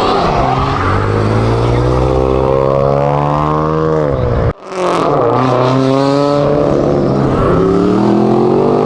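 A performance car's engine revving hard under full acceleration, its pitch climbing for about four seconds before a sudden cut. A second hard acceleration follows, climbing again and then easing off.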